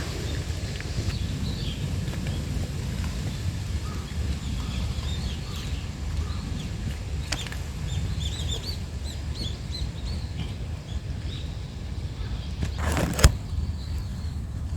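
Strong wind buffeting the microphone as a steady low rumble, with small birds chirping over it again and again. A brief rustle ending in a sharp knock near the end.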